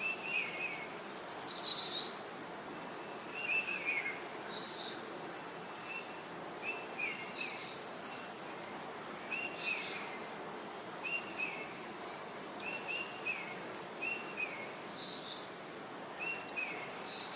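Wild birds calling in forest: short chirps repeated every second or two, with higher calls above them and one loud falling call about a second and a half in, over a steady rushing background noise.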